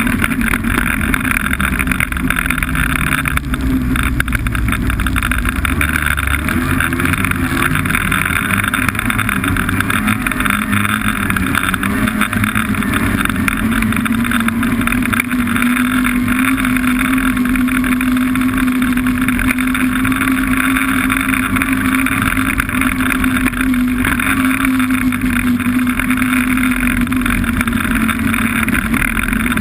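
Snowmobile engine running under way at a steady speed. Its pitch shifts in the first several seconds, then holds as a steady drone.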